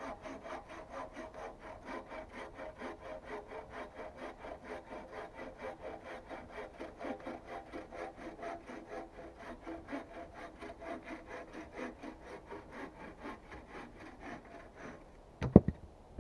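Hand saw cutting through wood in quick, even strokes, about five a second. The sawing stops near the end and is followed by a loud knock and a second, smaller one.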